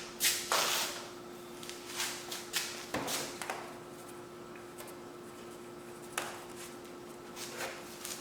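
Objects being handled in a workshop: a scatter of short rustles and light knocks, several in the first half and two more near the end, over a faint steady hum.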